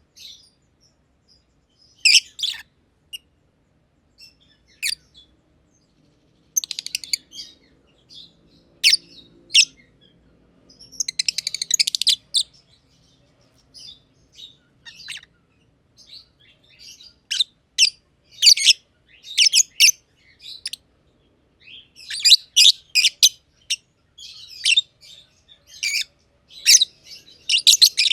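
Black-masked lovebirds (green and pied green personata) chirping in short, sharp, high bursts. The bursts are sparse at first and come thick and fast in the second half.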